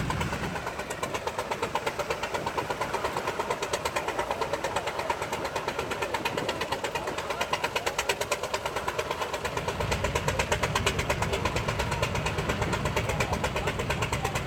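Tractor engine running with a rapid, even firing beat. It grows a little louder and deeper about two-thirds of the way through, then cuts off suddenly.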